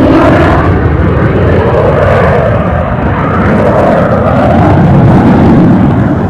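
Northrop F-5 Tiger III fighter jet's twin J85 turbojets, loud in a flypast, with a slow wavering whoosh as the jet passes. The sound drops a little near the end.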